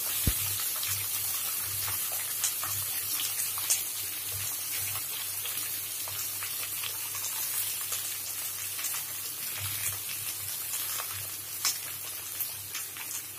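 Chopped onion and green capsicum sizzling in hot oil in a metal pan: a steady hiss with scattered crackles and pops.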